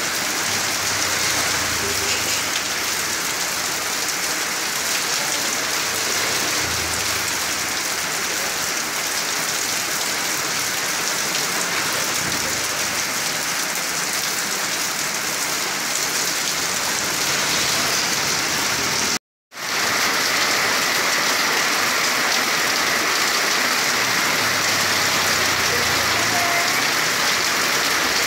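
Heavy rain falling steadily, a dense even hiss of drops on surfaces. It cuts out abruptly for a split second about two-thirds of the way through, then resumes just as heavy.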